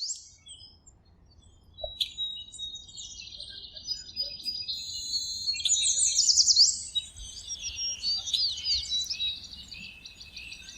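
Birdsong: several birds chirping and trilling over one another, with quick sweeping whistles, busiest in the middle of the stretch.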